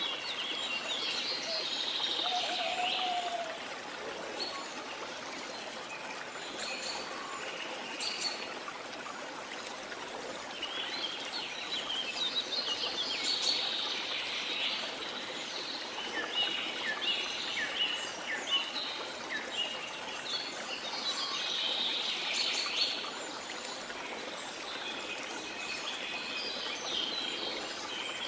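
Rainforest ambience: many birds singing and chirping in repeated bursts over a steady rush of falling water from a waterfall.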